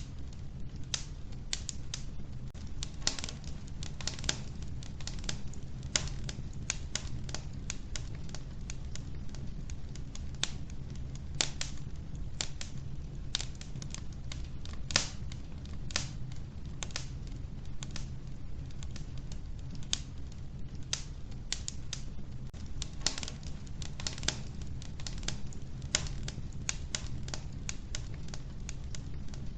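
Wood fire burning in a stove, the logs crackling and popping in irregular sharp clicks, several a second, over a steady low rumble.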